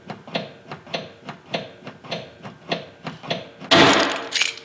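PDR glue-tab dent puller being worked in a run of regular clicks, about three a second, as it draws on a glue tab stuck to the dented car panel. A little before the end the glue tab lets go of the panel with a loud, sharp pop.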